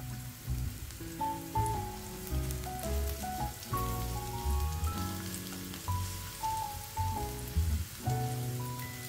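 Chopped garlic sizzling in a spoonful of hot oil in a wok, a steady fine crackle while it is fried until fragrant and stirred with a spatula. Background music with a bass line plays over it.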